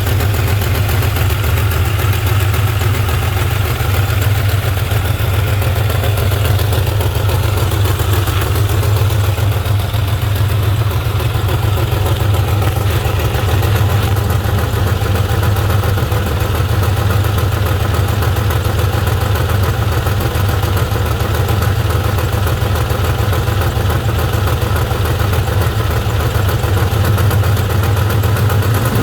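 2003 Ford 4.6-litre two-valve V8 idling steadily with a clacking, ticking noise from the engine.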